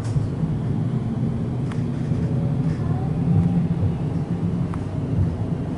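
Electric suburban train running along the track, heard from inside the carriage: a steady low rumble with a few faint ticks.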